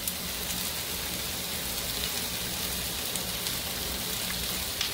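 Sliced bell peppers and onion sautéing in oil in a frying pan: a steady sizzle with a few faint crackles.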